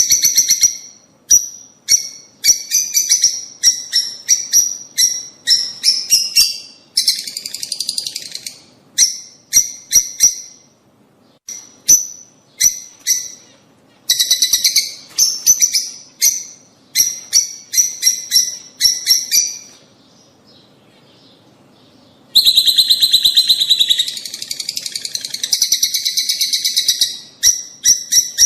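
Lovebirds calling: runs of sharp, high-pitched chirps in quick succession, broken by longer stretches of dense, excited chattering, with a brief lull about two-thirds of the way through.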